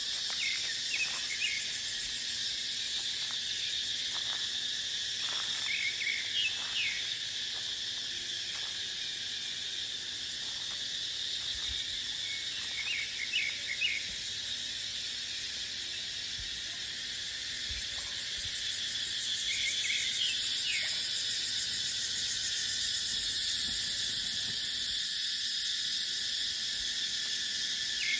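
Cicadas droning in a steady high-pitched chorus, with one swelling louder and pulsing rapidly about two-thirds of the way in. Short clusters of chirps recur every few seconds over the drone.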